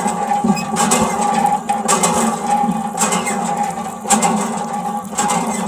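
A small motor running steadily, with a sharp click about once a second.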